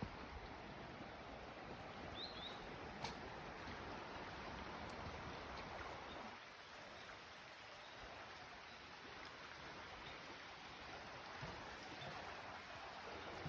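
Pembina River flowing: a steady, faint rush of water. Two short high chirps, likely from a bird, come in the first few seconds, and a low rumble fades out about halfway through.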